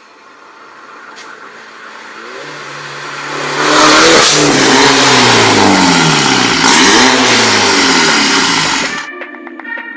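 MINI Cooper S (F56) 2.0-litre turbocharged four-cylinder running through a John Cooper Works exhaust: it builds up loud as the car revs and drives, with the engine note sliding down and back up. It cuts off suddenly about nine seconds in.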